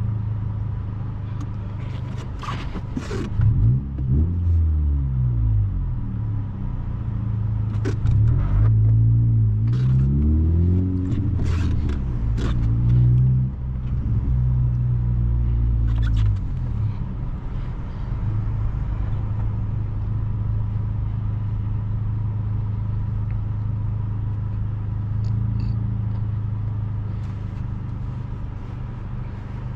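Honda Civic Si's 1.5-litre turbocharged four-cylinder engine accelerating hard through the gears: the engine note rises, drops at each shift and rises again several times, then settles into a steady cruise.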